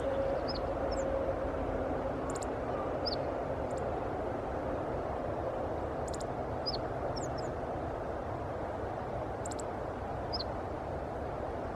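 Small songbirds chirping, with short high notes and quick clicky trills every second or two, over a steady low rumble of distant traffic; a faint droning tone in the rumble fades out about halfway through.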